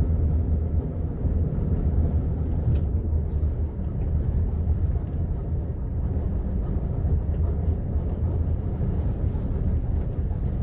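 Steady low rumbling background noise, with a faint click nearly three seconds in.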